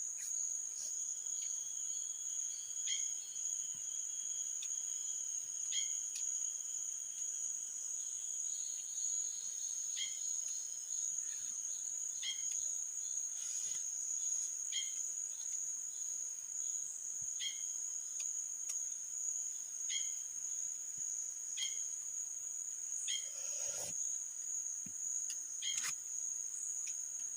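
Forest insects keep up a steady, unbroken high-pitched trill. Over it a short chirping call repeats about every two to three seconds, and a single brief knock comes near the end.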